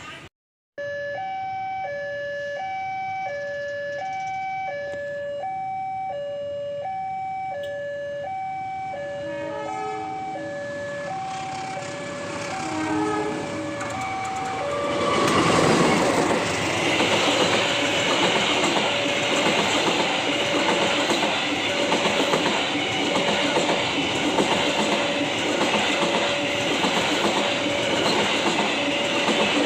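Level crossing warning alarm sounding a steady alternating two-tone signal, then a train hauled by a diesel locomotive passes from about halfway through, its loud rumble and wheel noise taking over while the alarm keeps sounding underneath.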